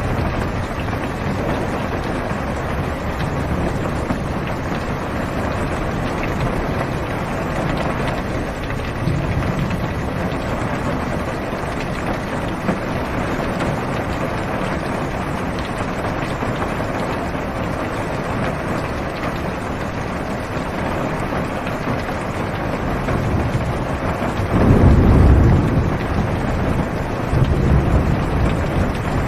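Steady heavy rain drumming on a car's roof and windows, heard from inside the cabin. A low rumble of thunder swells near the end.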